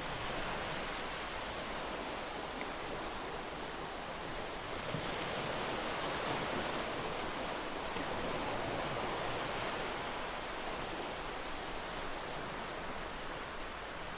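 Ocean surf breaking and washing on a shore: a steady rush of noise that swells about five seconds in and eases off again toward the end.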